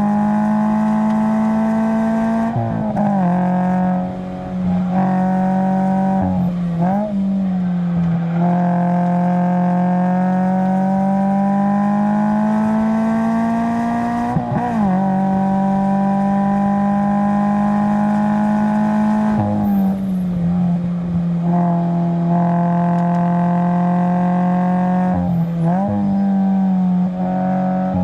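2020 Subaru BRZ's flat-four engine under hard driving on track. Its pitch climbs steadily through long pulls, with sudden drops and quick up-and-down blips at several gear changes.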